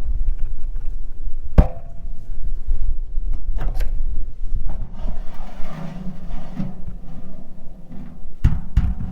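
A few sharp knocks and bangs, single strikes spread across several seconds, over a steady low wind rumble on the microphone, from climbing up and opening a lid.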